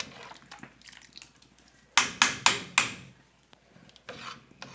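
A kitchen utensil knocking and scraping against a large cooking pot of canjica, with four sharp knocks in quick succession about two seconds in.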